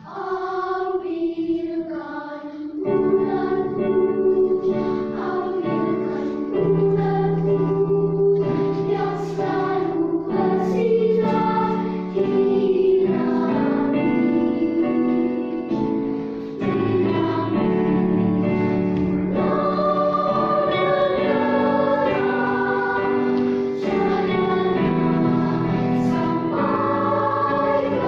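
Children's choir singing, several voices holding notes together in harmony and moving from chord to chord.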